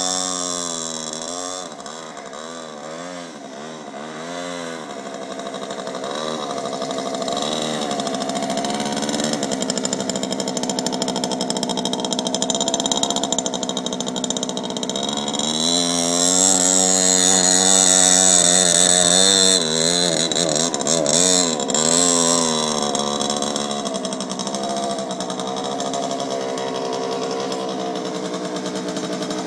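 Mini chopper bike's small engine running, its pitch rising and falling with the throttle. It grows louder about halfway through, is loudest a few seconds later, then settles back to a steadier run.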